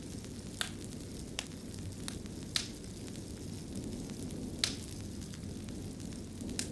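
Wood fire crackling in a stone fireplace: a steady low rumble of burning with scattered sharp pops, about five of them, the loudest about two and a half and four and a half seconds in.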